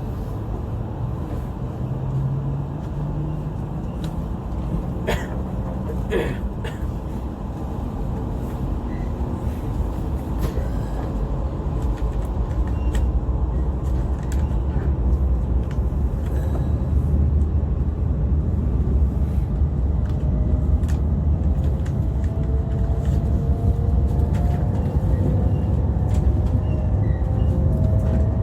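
E5 series Shinkansen running: a steady low rumble that grows slowly louder, with a few sharp clicks early and a faint, slowly rising whine in the last several seconds.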